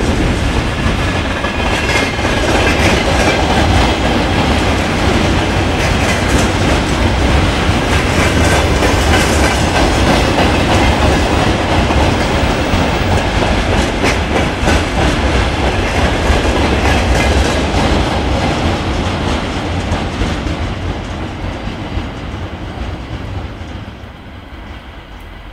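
Freight wagons rolling past on a steel truss railway bridge, wheels clattering over the rail joints in a steady clickety-clack. The noise fades away over the last several seconds as the end of the train passes.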